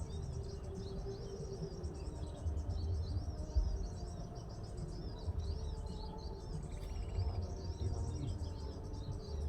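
Small birds chirping in a rapid, unbroken run of short high notes, over a low rumble.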